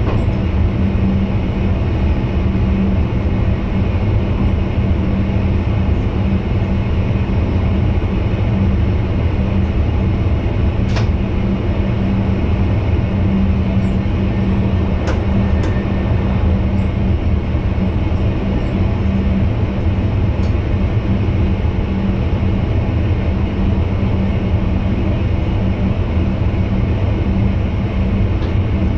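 Steady running noise inside the driver's cab of a VIRM double-deck electric train: a constant low rumble with a steady hum, and a few faint clicks in the middle.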